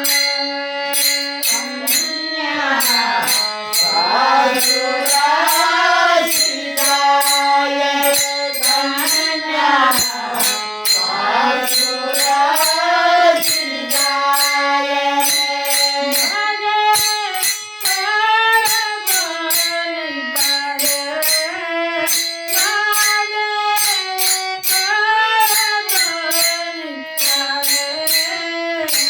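A woman singing a Marathi folk song in a gliding, ornamented melody, over a steady beat of jingling percussion.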